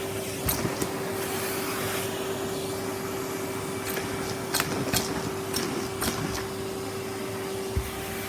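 Henry canister vacuum cleaner running steadily, with a constant motor hum. Sharp clicks come now and then as small hard bits such as Lego pieces are sucked up the nozzle.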